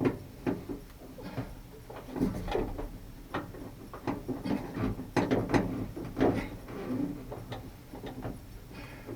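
Irregular clicks, knocks and rattles of a pickup's replacement door handle and its linkage being handled and worked into place.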